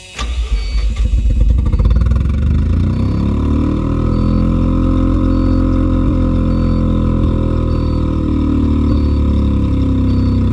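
Mazda RX-7's 13B twin-rotor rotary engine cranked on the starter, catching about a second and a half in and settling into a steady idle whose pitch rises a little and then eases. It keeps running on its own now that the throttle body sensor has been cleaned.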